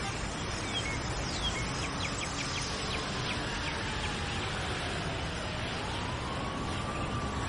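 Steady outdoor background noise with a run of quick, high chirps, and a slow wailing tone that falls and then rises again near the end.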